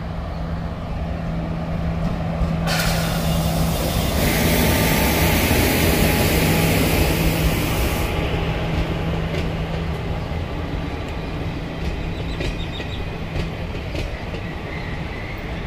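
Indian Railways WAP-4 electric locomotive and its passenger coaches passing at speed: a steady hum under a loud rush of noise that peaks about three to eight seconds in as the locomotive goes by. After that the coaches roll past, their wheels clicking over the rail joints.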